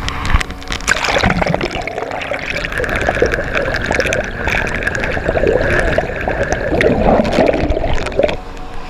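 Rushing floodwater gurgling and splashing right at the microphone, full of small pops and crackles, cutting off abruptly near the end.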